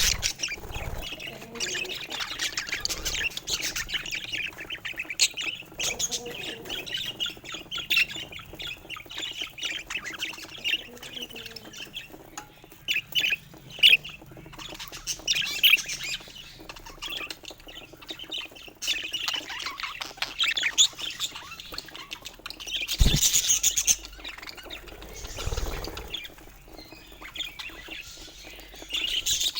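Budgerigars chattering, with a steady stream of squawks and chirps. A brief louder burst comes about three-quarters of the way through.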